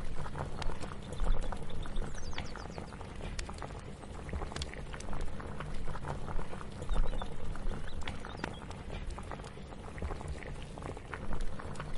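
Kitchen ambience: a steady low rumble with many small scattered clicks and taps, like cooking activity, and what sounds like a pot bubbling.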